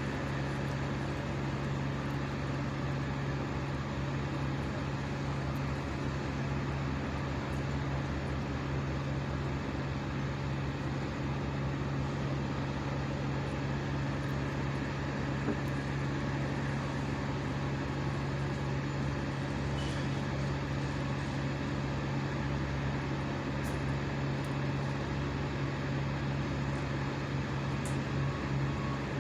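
An engine running steadily at high speed, a constant low drone that holds the same pitch and level throughout.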